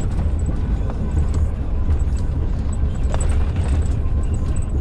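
Inside a truck cab on the old, worn concrete surface of the Reichsautobahn: a steady low engine and road rumble, with a few sharp knocks and rattles as the truck rides over the rough road, the clearest about three seconds in.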